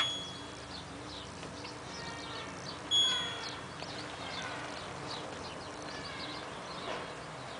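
LG F1222TD washing machine's control panel giving two short, high single-tone beeps about three seconds apart as its buttons or dial are worked. Faint bird chirping continues in the background.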